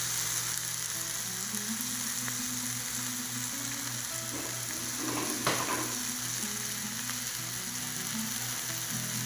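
Diced tomato and onion frying in oil in a nonstick pan, a steady sizzle, with one brief louder burst a little past halfway.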